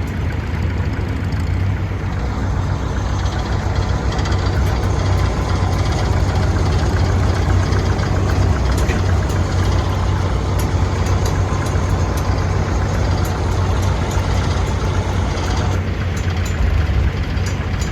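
Vintage tractor engine running steadily with a low, even hum.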